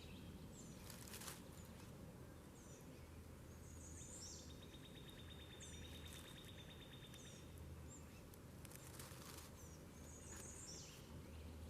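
Faint wild birdsong: scattered short high chirps and a steady rapid trill lasting a few seconds, over a low background hum.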